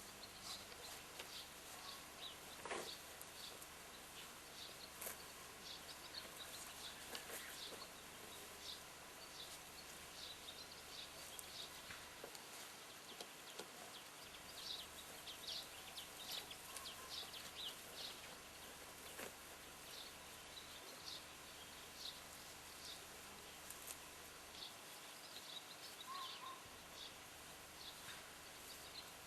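Faint outdoor background with birds chirping now and then: short high chirps scattered throughout.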